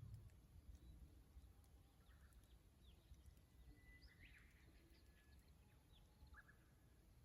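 Faint, distant Japanese bush warbler (uguisu) song over a steady low rumble. About four seconds in comes a held whistle ending in a quick flourish, with another short phrase near the end and a few other faint bird chirps.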